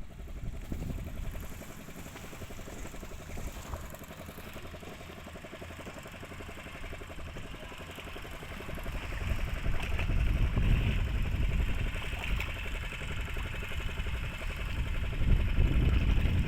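Fishing boat's inboard engine running steadily, its firing pulse even throughout, growing louder with a heavier low rumble about halfway through.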